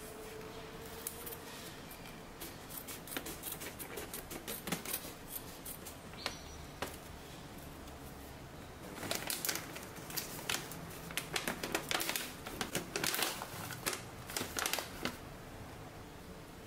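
Irregular light clicks and taps of small hard objects being handled, sparse at first and coming thick and fast from about halfway.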